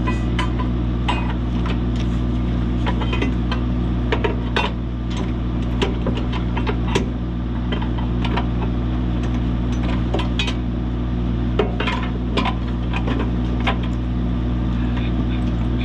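Scattered metal clinks and knocks of a steel pry bar and hand tools working an engine into its motor mounts. Under them runs the steady hum of an idling engine.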